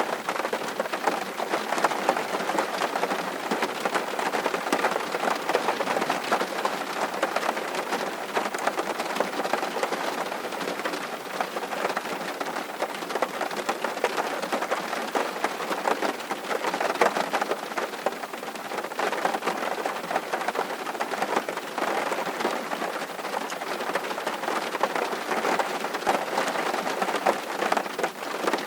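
Steady rain falling, a dense, even patter of many small drops that holds at the same level throughout.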